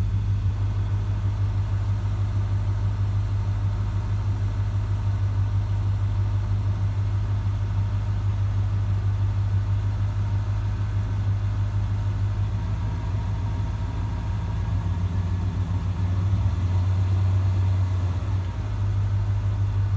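Car engine idling steadily as it warms up after a repair, its note shifting briefly and growing slightly louder about sixteen seconds in.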